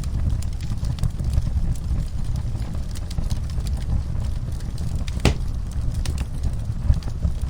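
Wood fire in a fireplace crackling, with scattered small pops over a steady low rumble and one louder pop about five seconds in.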